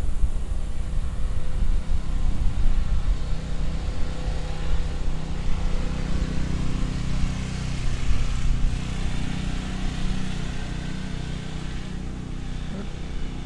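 Wind rushing and buffeting over the microphone of a rider moving on an electric unicycle, a heavy low rumble with a few faint steady low tones under it.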